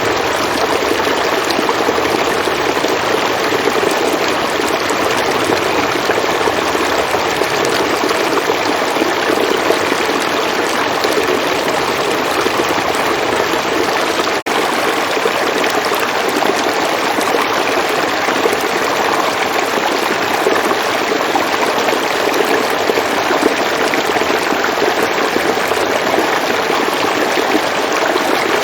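River water flowing in a steady, continuous rush, with a momentary dip in level about halfway through.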